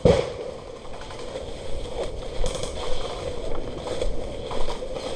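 Airsoft gunfire: one sharp shot right at the start, then irregular fainter pops and knocks over a steady background noise.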